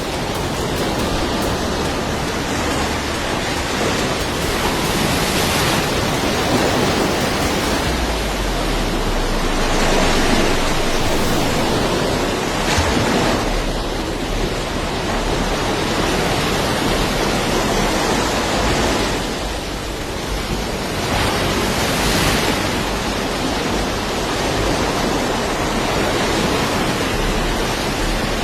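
Fast-flowing floodwater rushing: a steady, loud noisy rush that swells and eases every few seconds.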